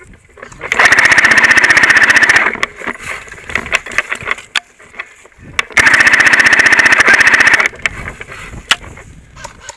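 Airsoft MG42 replica firing two long full-auto bursts of about two seconds each, about four seconds apart, the mechanism cycling very rapidly.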